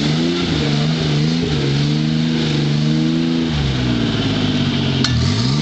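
A four-wheel-drive vehicle's engine running hard through mud. The revs hold, sag, then drop sharply near the end and climb again as the throttle is opened, with a short click at the dip.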